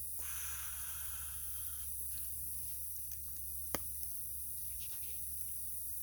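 Small wood fire burning in a camp stove, hissing, with scattered faint crackles and one sharp pop a little under four seconds in.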